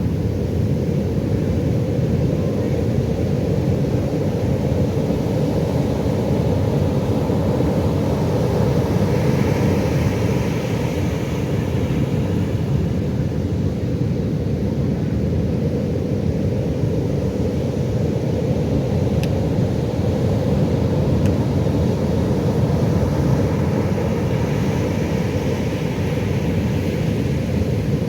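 Pacific Ocean surf: a steady low rumble of waves, with a brighter hiss of breaking, washing water swelling up twice.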